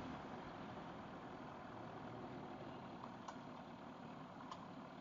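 Faint, steady, muffled running of an MV Agusta F4 RR motorcycle's inline-four engine, heard through the rider's helmet, with two faint clicks partway through.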